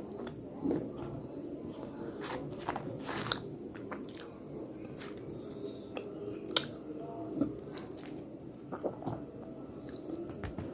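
A person biting and chewing slate close to the microphone: crisp, irregular crunching clicks over a low steady hum.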